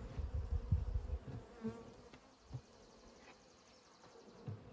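Honeybees buzzing around an open hive, a faint steady hum. Low knocks and rumbling in the first second.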